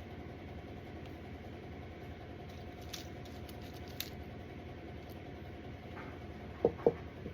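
Small craft items handled on a work table: faint ticks, then two quick light knocks near the end, over a steady low room hum.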